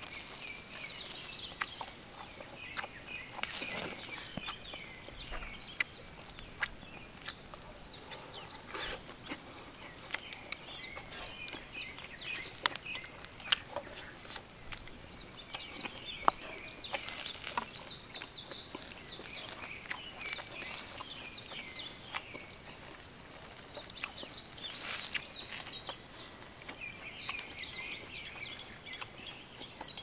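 Small birds chirping and singing on and off, over a steady outdoor background with scattered sharp clicks and taps close by, the loudest click about halfway through.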